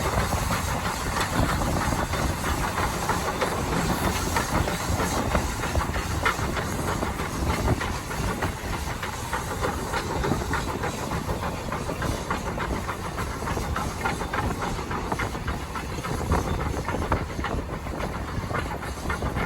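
SAR T-class steam locomotive T251 working along the line, a steady hiss of steam mixed with the rattle of the train running on the rails.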